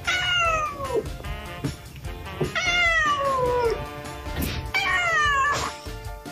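A cat meowing loudly three times, long drawn-out meows about two seconds apart, each sliding down in pitch, over background music.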